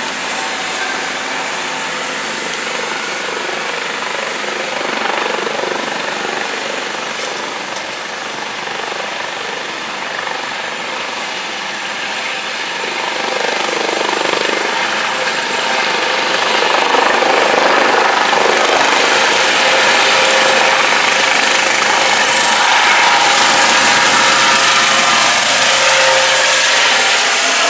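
Eurocopter AS 365N3 Dauphin twin-turbine helicopter running: steady rotor and turbine noise that grows louder about halfway through and then stays loud.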